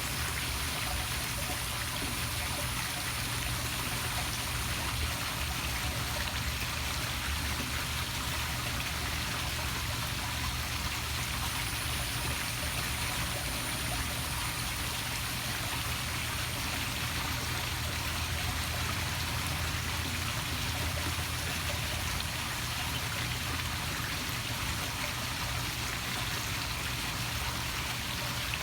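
Small poolside waterfall splashing steadily into a swimming pool.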